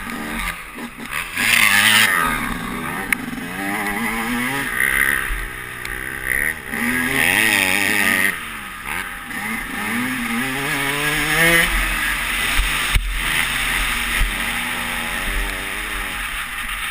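Motocross dirt bike engine, heard from the rider's helmet camera, revving up and down again and again as the throttle is opened and closed. Its pitch climbs and drops every second or two over a steady rushing noise.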